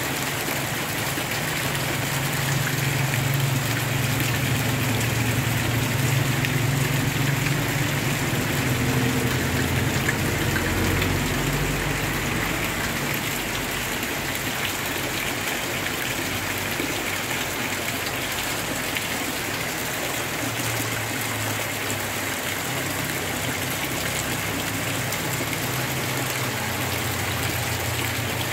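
Heavy rain falling steadily on flooded ground. Under it runs a low hum that comes and goes: loudest in the first third, fading by the middle, and back more faintly near the end.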